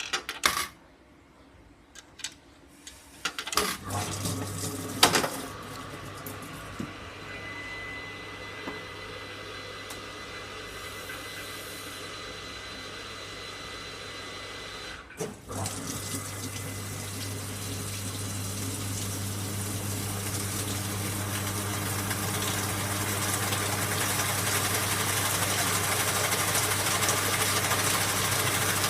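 AQUA MCW-C50 coin-operated washing machine starting its cycle: a few sharp clicks, then a steady hum as water rushes into the tub. The rushing breaks off briefly about fifteen seconds in, then resumes and grows slowly louder as the tub fills.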